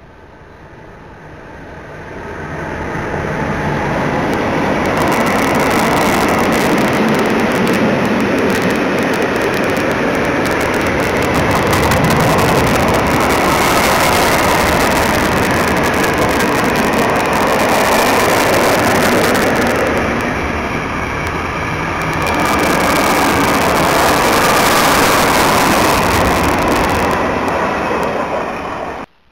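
Freight train of tank wagons, drawn by an electric locomotive, rolling past at close range: wheel-on-rail noise builds over the first few seconds, holds steady as the tank cars go by, and cuts off abruptly near the end.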